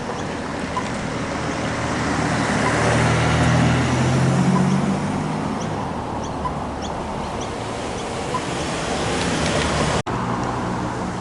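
Road traffic passing over a level crossing: a vehicle's low hum builds to a peak about four seconds in and then fades. The sound breaks off abruptly for an instant about ten seconds in.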